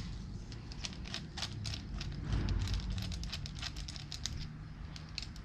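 Rapid small clicks and rattles of hard parts being handled: a TIG torch's collet, collet body and cup being fitted together and the tungsten stick-out adjusted. A low steady hum runs underneath.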